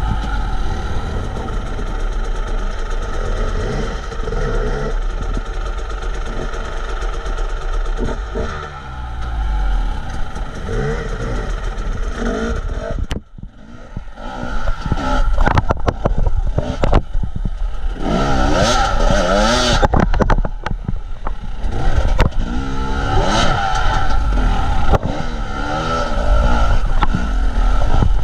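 A motor vehicle engine running and revving up and down repeatedly, with a brief drop in sound about thirteen seconds in.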